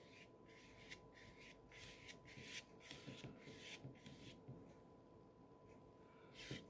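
Faint, repeated swishes of a paintbrush stroking thick white gouache across paper, a couple of strokes a second, with a short pause near the end.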